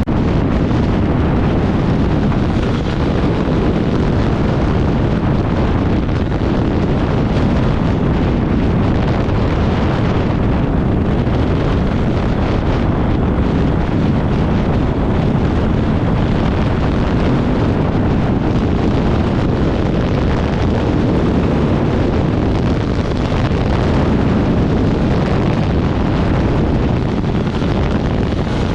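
Dirt bike ridden at speed across the desert, its engine drone buried under heavy wind buffeting on the microphone.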